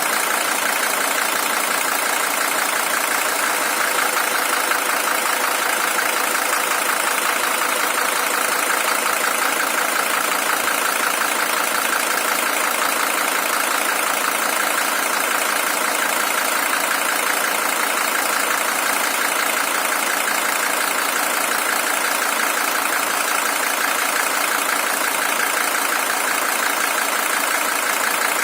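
Mercedes-Benz OM617 five-cylinder diesel engine in a W123 300TD, original with 620,000 km on it, idling steadily.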